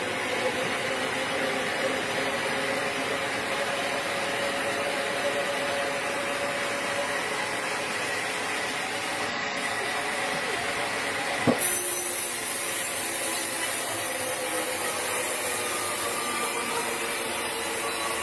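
Sawmill machinery running steadily with a faint whine, with one sharp knock about two-thirds of the way through.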